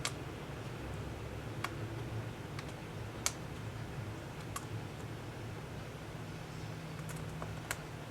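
Scattered light, sharp clicks and taps at irregular spacing, about half a dozen, the loudest a little over three seconds in, over a steady low hum: small tools and parts being handled during a tablet teardown.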